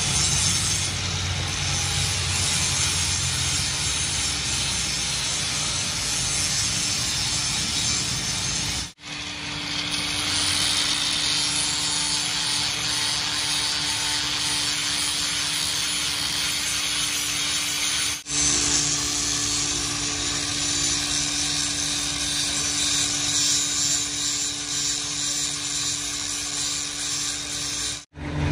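A power tool running steadily against a workpiece, in three stretches split by two abrupt cuts; a steady hum joins in after the first cut.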